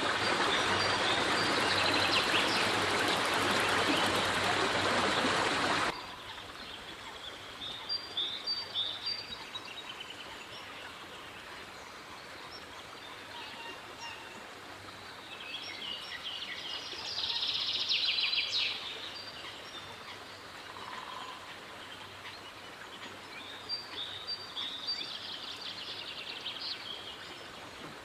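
Outdoor bird calls: scattered high chirps over a steady background hiss, with a denser burst of chirping past the middle. The first six seconds are covered by a loud rushing noise that cuts off suddenly.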